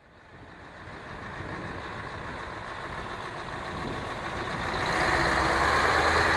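Truck engine and road noise fading in, growing steadily louder.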